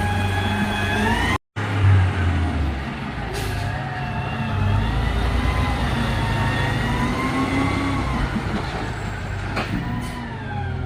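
Garbage truck running, with a whining tone that wavers up and down in pitch over the engine rumble. The sound drops out completely for a moment about a second and a half in, and a short hiss comes near the end.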